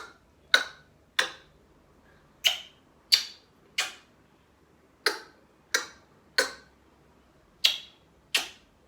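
A person making sharp, short smacks in steady groups of three, about two-thirds of a second apart, with a brief pause between groups.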